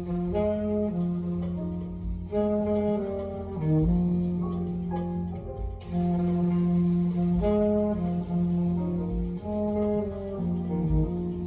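Jazz saxophone playing a sustained, repeating melodic phrase over low bass and drum hits.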